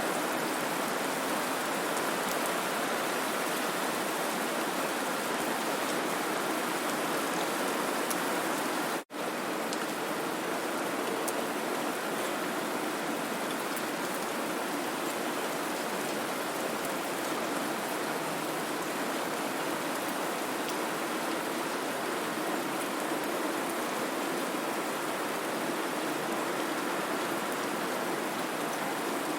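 Steady white-noise hiss, even and rain-like, with no pitch or rhythm. It cuts out for a split second about nine seconds in, then carries on unchanged.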